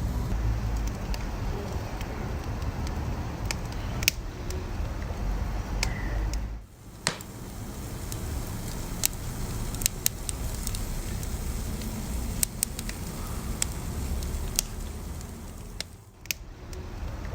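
Wood fire burning in a fireplace: a steady low rumble of flames with scattered sharp crackles and pops. The sound dips briefly twice, about six and a half seconds in and again about a second before the end.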